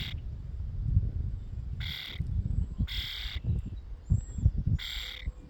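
A young bird begging with harsh, scratchy calls, three times about a second or two apart.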